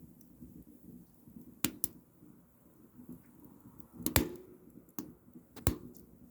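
Wood fire crackling in a small camping wood stove: sharp pops at uneven intervals over a low steady rumble, the loudest about four seconds in.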